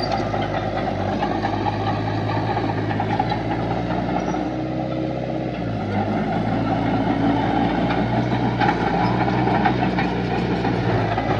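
Diesel engine of heavy earthmoving machinery running, its engine speed dropping and picking up again a few times.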